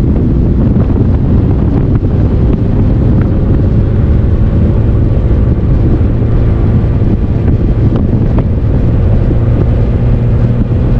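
Vehicle on the move: a steady rumble of engine and road noise, with wind buffeting the microphone.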